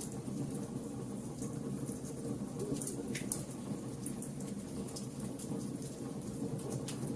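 Fire burning, with a steady low rumble and scattered sharp crackles and pops.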